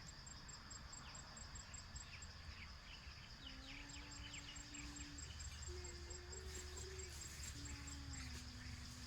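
Crickets and other insects trilling steadily, with a faster pulsing chirp above them, and faint birds chirping. A low droning tone comes and goes three times in the second half.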